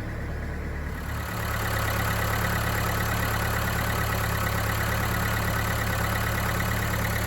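Mercedes-Benz B-Class engine idling steadily. It grows a little louder about a second and a half in, then holds an even idle.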